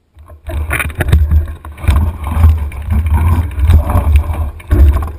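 Mountain bike riding over rough dirt trail, picked up by a handlebar-mounted camera: wind buffeting the microphone with a low rumble, and the bike rattling and knocking over bumps. It starts suddenly about half a second in.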